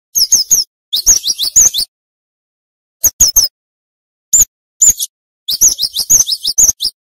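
Cinereous tit (gelatik batu) singing in rapid runs of sharp, high, downward-slurred chirps. The runs come in about six quick phrases separated by short silent gaps, the longest run near the end.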